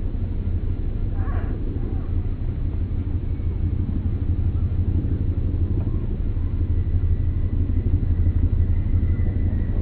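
Bird sounds slowed down: a loud steady deep rumble, with a faint drawn-out call about a second in and a thin steady tone from about seven seconds in.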